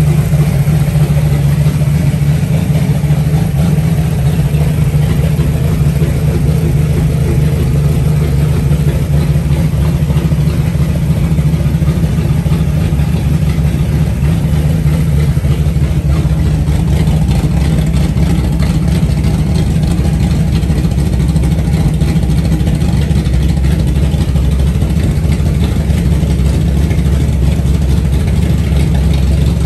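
Freshly built 360 stroker V8 running steadily on its first start-up.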